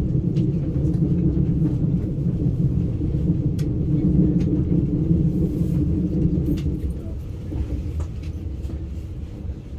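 ICE high-speed train running on the rails, a steady low rumble heard from inside the carriage, easing off a little about seven seconds in as the train nears the station. A few faint clicks over the rumble.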